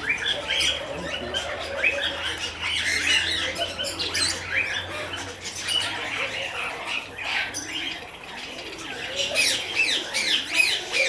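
Many birds chirping and squawking at once, short quick calls overlapping throughout. A low steady hum underneath stops about eight seconds in.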